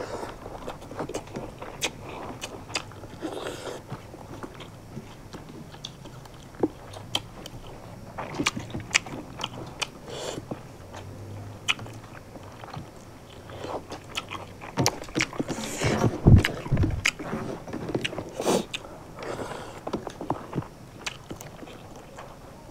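Close-miked eating sounds of two people chewing and crunching a raw shredded-vegetable singju salad with rice, with many irregular wet clicks, smacks and crunches. A louder cluster of knocks, including a deep thump, comes about 16 seconds in.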